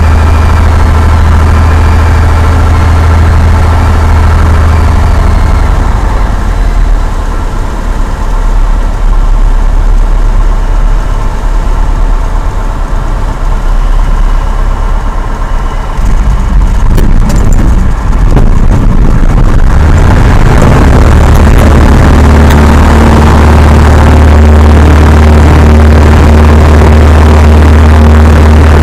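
Cessna 172's piston engine and propeller running steadily with a strong low hum. About twenty seconds in the sound grows fuller and louder, with a strong rush of noise, as power comes up.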